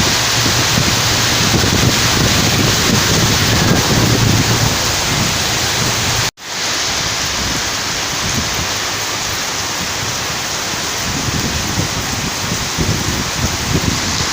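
Heavy rain falling in a steady downpour. The sound cuts out for a split second about six seconds in, then carries on.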